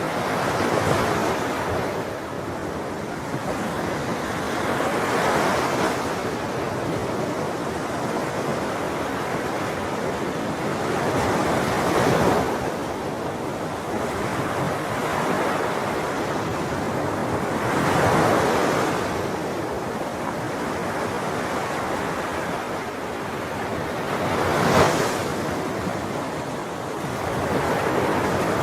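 Sea waves breaking on a shore, one wave every six seconds or so over a steady wash of surf, the sharpest break near the end.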